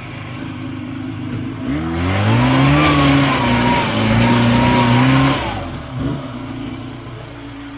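Buran snowmobile's two-stroke engine, idling, then revved hard for about four seconds from a couple of seconds in with a loud rushing noise of the spinning track, then dropping back to idle: the machine is bogged down in slushy overflow and is trying to pull free.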